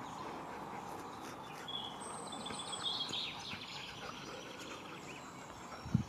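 Outdoor ambience with faint birdsong, a few short chirps in the middle, and a brief low sound near the end.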